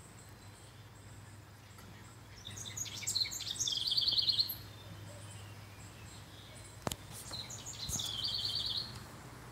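A songbird singing twice, each song a few scattered high notes running into a fast trill, with a single sharp click between the songs.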